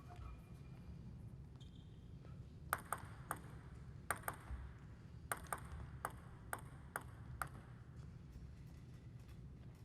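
Table tennis ball clicking against the table and rackets: about a dozen sharp ticks in a short run of play, starting about three seconds in and ending about two seconds before the end, over a low hall hum.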